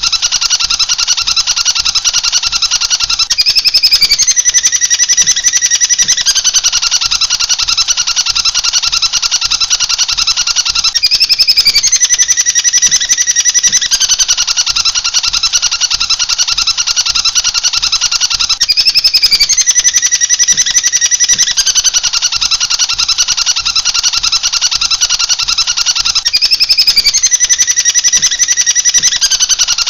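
Small songbirds chirping and twittering in a dense, continuous chatter, with the same passage of gliding notes coming round about every eight seconds as a looped recording.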